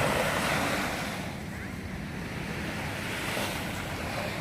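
Sea waves washing at the shore, mixed with wind rushing on the microphone, swelling louder in the first second.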